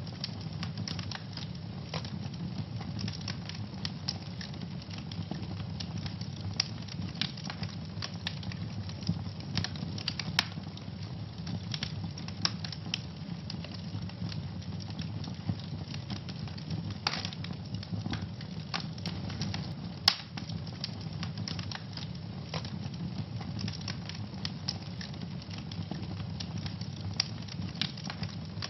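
Wood fire burning in a fireplace: a steady low rumble with constant crackling and frequent sharp pops, a couple of louder pops around the middle.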